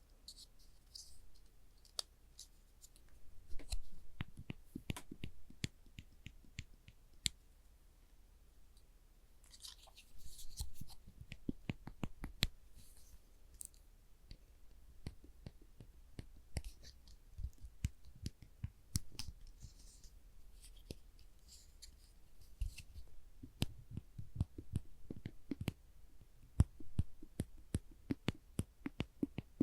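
Orange-tipped spring clamps being squeezed open and released, giving a run of sharp irregular clicks and snaps with a few brief scrapes of handling. The clicks come faster and louder toward the end.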